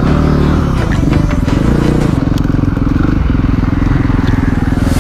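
KTM EXC-F 350 single-cylinder four-stroke enduro engine running under load, its revs rising and falling with the throttle, with a rise near the start and another about two seconds in.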